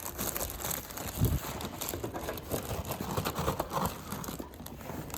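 Irregular rustling and crinkling of handling noise, with a soft low knock about a second in.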